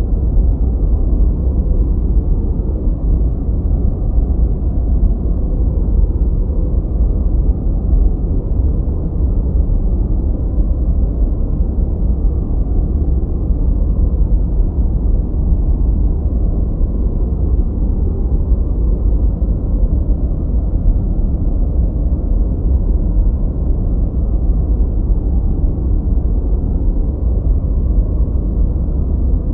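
Steady synthetic noise track, an even, unbroken rush with no events in it. It is deep and muffled, weighted to the bass with almost no hiss on top, so it sounds more like brown noise than bright white noise.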